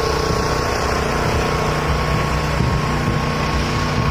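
An engine running steadily, its hum holding a constant pitch, with a thin steady tone above it.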